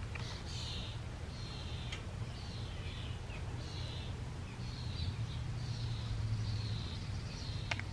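Small birds chirping in short, repeated high calls over a steady low rumble, with a brief click near the end.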